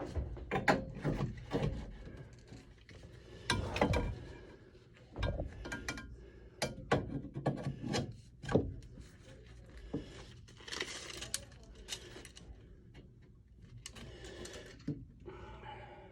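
Hand tools and fittings being worked on a water pipe: an irregular run of clicks and knocks with some scraping, busiest in the first few seconds.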